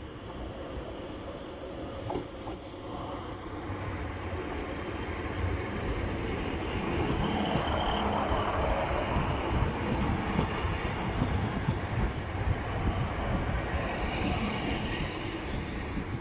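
A train running along the track, its rumble building to its loudest about halfway through and then easing slightly. A thin high-pitched sound comes in near the end.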